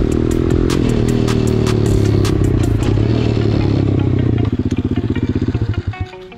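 Pitbike's 125 cc single-cylinder four-stroke engine running under load, its pitch slowly falling as the bike slows. About four and a half seconds in it changes to a quick, even off-throttle pulsing, and it drops away near the end.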